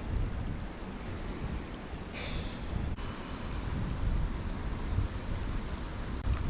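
Wind buffeting the microphone in a gusty, uneven low rumble over a steady hiss, with a brief higher hiss about two seconds in.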